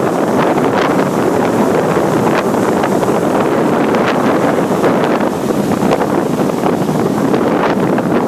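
Ocean surf breaking on a beach in a steady rushing roar, with strong wind buffeting the microphone.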